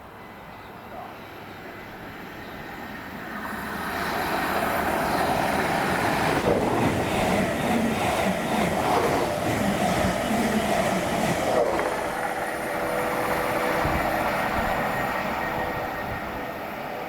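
A train passing on the line: its rumble and wheel noise builds from about three seconds in, stays loud for about eight seconds, then eases off, leaving a fainter steady hum with a held tone.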